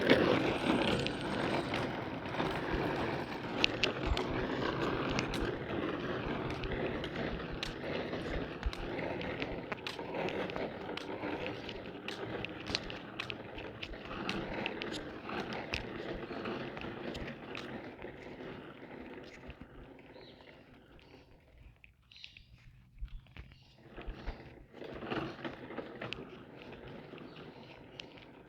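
Toy ride-on tractor driving, its wheels rolling over rough ground with a steady rumble and many small clicks and knocks, fading away over about twenty seconds, then a few louder irregular knocks near the end.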